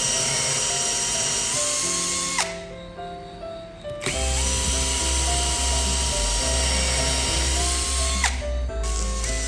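An electric power-tool motor, drill-like, running with a high whine. It cuts out about two and a half seconds in, starts again a second and a half later, and dips once more near the end. Background music with a steady beat plays throughout.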